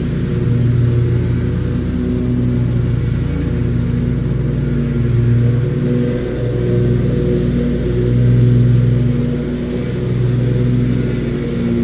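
Lawn mower engine running steadily under load while mowing, its level swelling and easing every couple of seconds.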